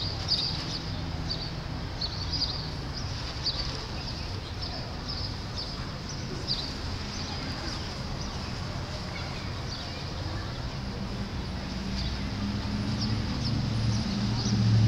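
Small birds chirping: short, high chirps scattered throughout, over a steady low rumble of outdoor background noise that grows louder near the end.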